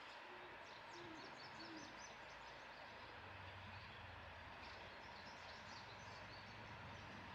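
Faint outdoor ambience: a bird gives three short low calls in the first two seconds, over steady hiss and scattered high chirping from small birds.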